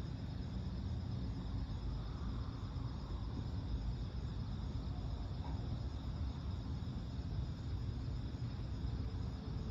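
Crickets chirping in a steady, continuous high chorus, over a constant low rumble.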